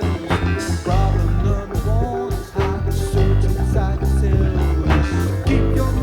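Live rock band playing, with electric guitars, bass, keyboard and drums keeping a steady beat.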